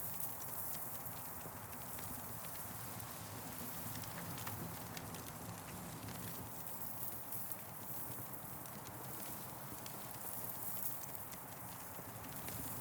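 Campfire burning, with frequent small irregular crackles and pops over a steady hiss.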